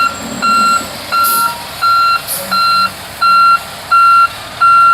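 A heavy military truck's reversing alarm beeping steadily, about seven even beeps at a single high pitch, roughly one and a half a second, over a faint low engine rumble.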